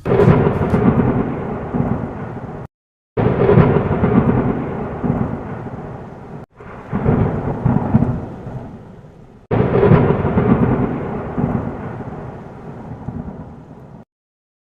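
Deep, thunder-like rumbling sound effect, played as four spliced stretches that each start suddenly at full level and fade. Each stretch cuts off abruptly, with dead silence between some of them, and the last cuts off near the end.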